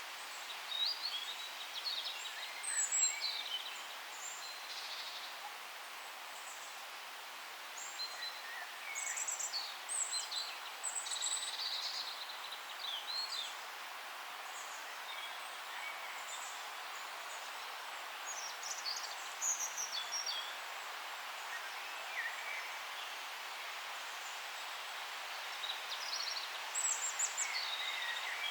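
Songbirds chirping and trilling in short bursts over a steady background hiss of forest ambience, with the calls coming in clusters and quieter gaps between.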